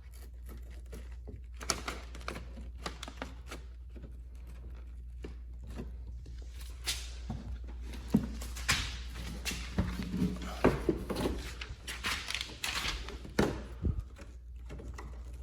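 Plastic speaker grilles being pried out of a car's rear parcel shelf: irregular clicks, knocks and scraping of plastic trim and clips, busiest in the second half, over a steady low hum.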